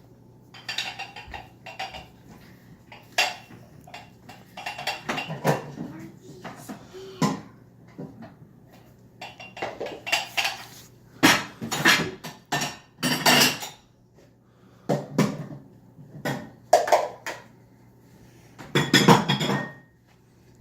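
Dishes and cutlery clattering and clinking in irregular bursts as a dishwasher is unloaded and the pieces are put away, loudest around the middle and near the end.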